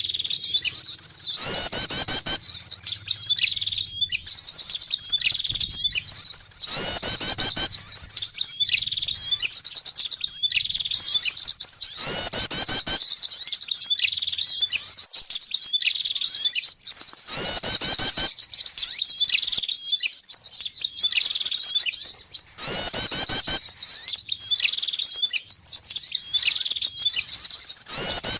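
Bird-lure recording of small songbirds, prinias among them: dense, rapid, high-pitched chirping and twittering without a break. A louder call phrase that reaches lower comes back about every five seconds, as the calls repeat in a loop.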